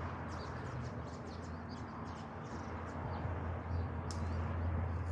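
Small birds chirping in short repeated calls over a steady low rumble, with one sharp click about four seconds in.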